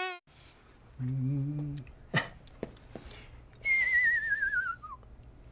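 Cartoon sound effects: a short, steady low buzzy tone, a click, then a warbling whistle gliding down in pitch for about a second.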